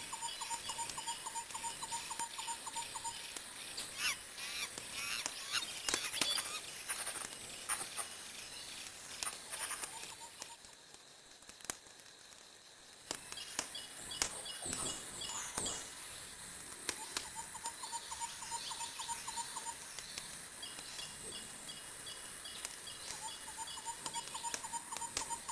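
Wood fire crackling, with irregular sharp pops that bunch together twice. A rapid, rhythmic trilling chirp repeats in runs of a few seconds in the background.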